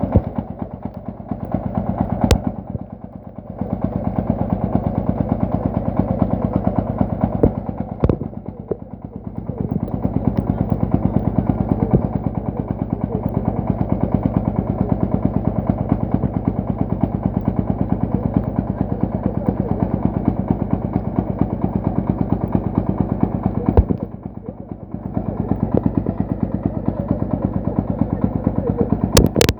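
Single-cylinder diesel engine of a công nông farm truck running hard under load, a fast, even chugging. It eases off briefly three times, about a second in, around eight seconds and near the end, each time with a sharp knock, then picks up again.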